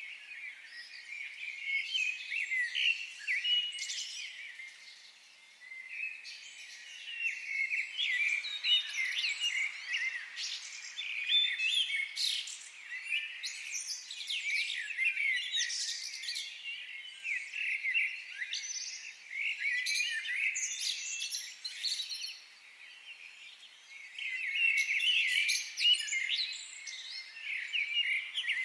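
Several songbirds chirping and singing together, overlapping high twitters and short trills, with a few quieter lulls.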